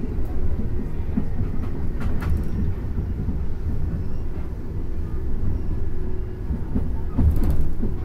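Tokyu 8500 series electric train running along the line: a steady low rumble of wheels on rail, with a couple of short knocks from the track.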